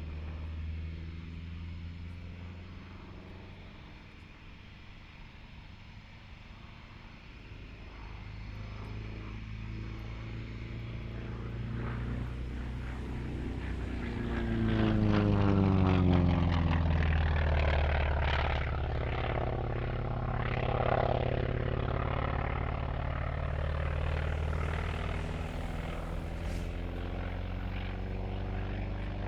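North American T-28 Trojan piston-engine propeller aircraft flying a display, its engine drone growing louder as it approaches. About halfway through it makes a close pass, the pitch of the engine falling as it goes by, then it drones on at a distance.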